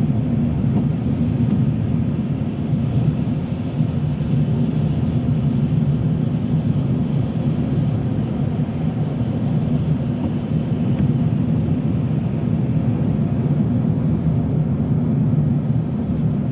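Steady road noise inside a moving car's cabin: tyres on a wet road and the engine making a low, even rumble.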